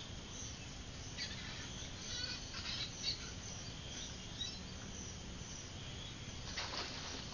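Short, high bird chirps now and then over a steady outdoor hiss, with a few brief noisy rushes.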